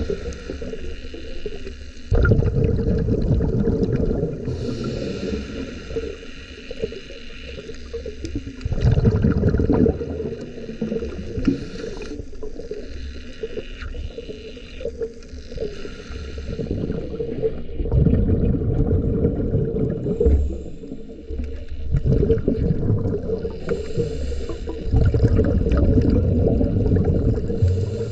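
Underwater recording: a scuba diver's exhaled bubbles gurgling up in loud, rough low surges every several seconds, with a steadier murmur of water between them.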